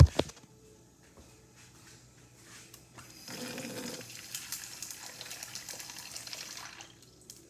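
Tap water running into a sink over ice cubes, rinsing them because they have gone sticky; the water starts about three seconds in and stops shortly before the end.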